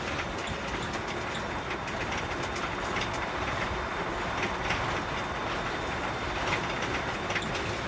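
Heavy truck on the move, heard as a steady road and running noise with many small irregular rattles and clicks.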